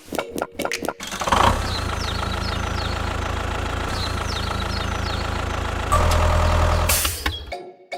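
An engine running steadily at idle, a low hum that grows louder about five seconds in and cuts off near the end, with a few short high chirps over it.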